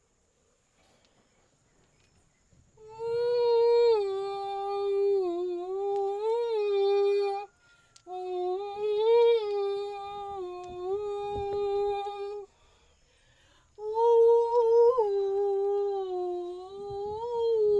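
A woman's voice singing long wordless notes, three drawn-out phrases with the pitch wavering gently up and down, after a few seconds of near silence at the start.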